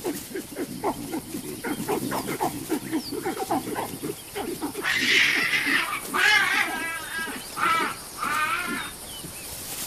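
A fight between olive baboons and cheetahs over a kill: a steady run of short, low grunting and growling calls, then, from about halfway, several loud, harsh baboon screams one after another.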